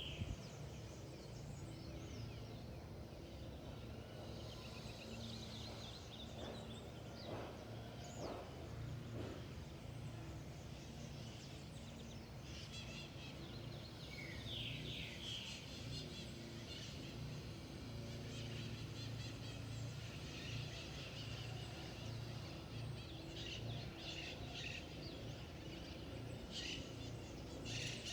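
Wild birds calling in a forest. A short, rapid run of high notes is heard about a second in and again around the middle, with scattered other calls later, over a steady low rumble.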